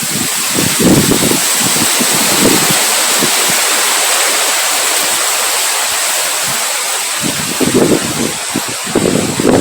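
Heavy rain falling with a steady hiss, with gusts of wind rumbling on the microphone about a second in and again near the end.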